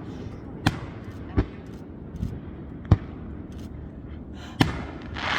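Fireworks going off: four sharp bangs, about a second or more apart, then a brief hissing burst near the end.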